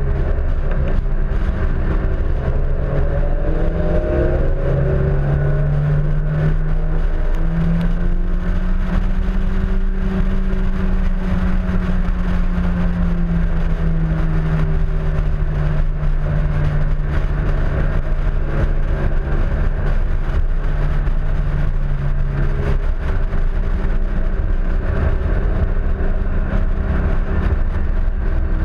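Honda S2000's four-cylinder engine driven hard on track, its note climbing and dropping through gear changes and corners, with the engine note falling away about three quarters of the way through. Heard from outside the car, with heavy wind rush on the microphone.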